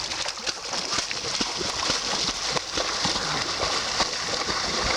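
Steady rush of wind and sea surf, with scattered short clicks and knocks throughout.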